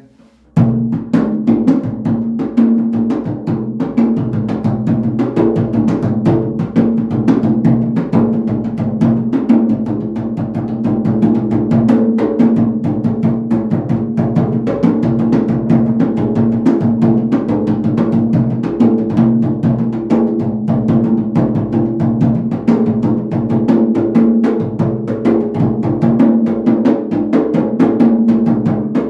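Atabaque, a leather-headed hand drum, played with bare hands in a fast, continuous warm-up rhythm that starts about half a second in.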